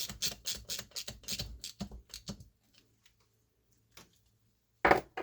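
Ratchet wrench clicking in quick, uneven strokes for about two and a half seconds as the supercharger's 13 mm oil plug is screwed back in, then a single loud sharp knock about five seconds in.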